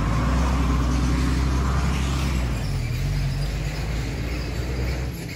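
Motor vehicle engine running steadily close by, with a low hum and road noise, easing off near the end.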